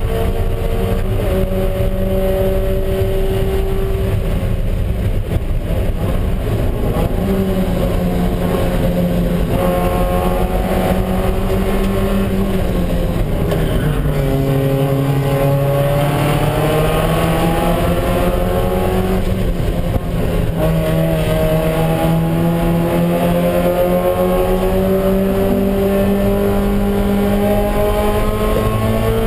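Mazda Miata Spec Miata race car's four-cylinder engine running hard at racing speed, heard from inside the cockpit. Its pitch holds and steps with gear changes, drops low about halfway through as the car slows, then climbs steadily through the second half.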